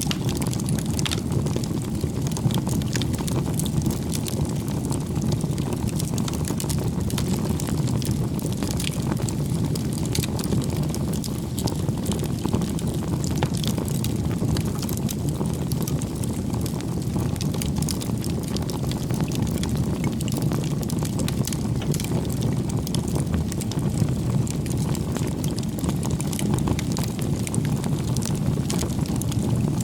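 Campfire burning with a steady low rumble and frequent small sharp crackles and pops.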